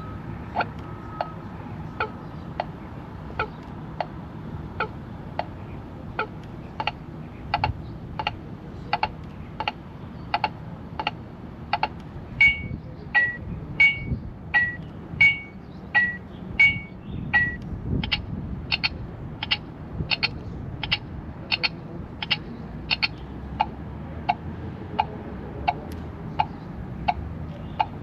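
NIU NQi GTS Pro 2022 electric scooter's turn-signal sounder cycling through its selectable blinker sounds. It gives an even series of ticks about 1.4 a second that changes sound several times, with a stretch of alternating high and low beeps about halfway through.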